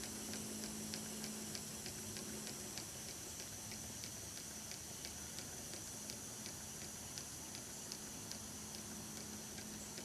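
Small double-acting slide valve model steam engine running on compressed air, beating out regular ticks about three times a second over a steady hiss. It is slowing as its air pressure runs down.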